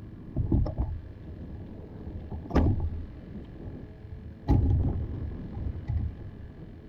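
Knocks and thumps against a kayak's hull: a few quick ones at the start, two sharp knocks about two seconds apart in the middle, and a softer one near the end.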